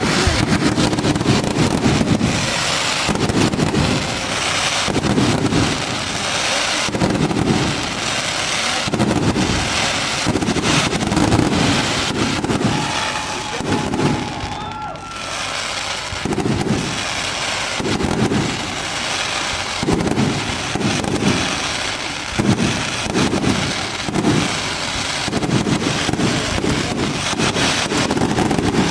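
Fireworks display: shells bursting one after another, a deep boom about every second, with crackling between the booms.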